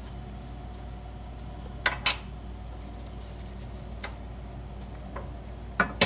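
Metal tools and suspension parts clinking and tapping, with two sharper knocks about two seconds in and more knocks starting near the end, over a steady low fan hum.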